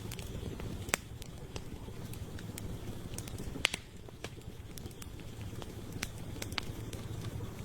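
Wood campfire burning with a steady low rumble and irregular sharp crackles and pops, two louder pops about a second in and near the middle.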